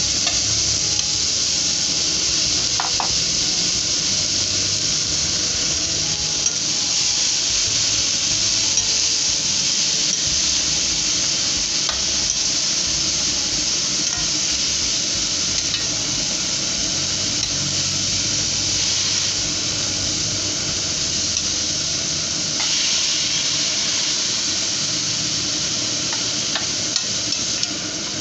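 Shredded bamboo shoots sizzling in a metal wok, a steady hiss, while a metal spoon stirs them, with a few light clinks of the spoon against the pan.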